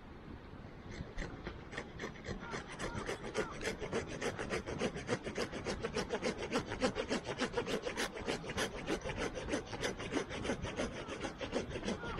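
Hand saw cutting through wood in quick, even strokes, about five a second, starting about a second in.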